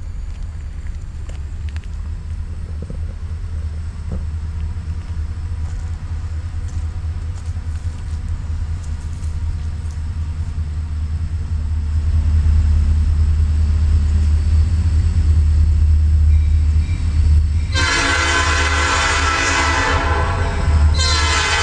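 EMD SD40-2 diesel locomotive approaching, its 16-cylinder two-stroke engine a low rumble growing steadily louder. Near the end its air horn sounds a long blast, breaks off briefly, then starts a second blast.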